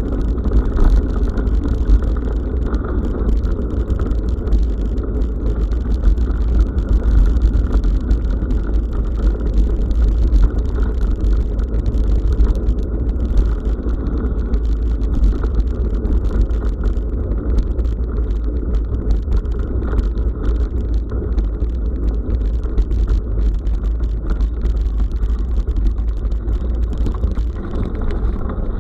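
Riding noise from a bicycle on a forest road picked up by an action camera: a steady, heavy rumble of wind on the microphone mixed with tyre and gravel noise, unbroken throughout.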